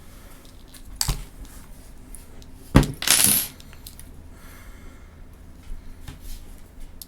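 Small hard accessory parts, camera mount brackets, being handled: a click about a second in, then a sharp knock followed by a brief metallic rattle.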